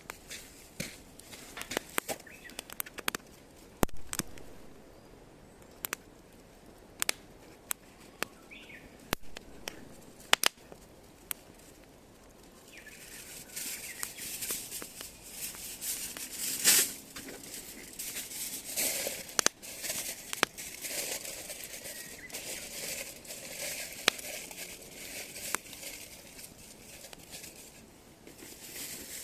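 Wood fire in a small folding fire pit crackling, with sharp scattered pops; about halfway through it turns into a denser, louder hissing crackle as the fire burns up.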